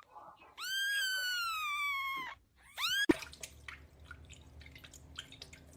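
A cat meowing: one long meow falling in pitch, then a short rising one that cuts off about three seconds in. After that come faint scattered ticks over a low hum.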